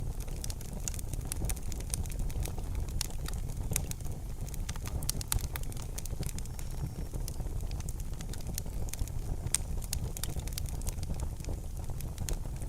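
Wood fire burning in a fireplace: a steady low rumble with many sharp crackles and pops scattered irregularly throughout.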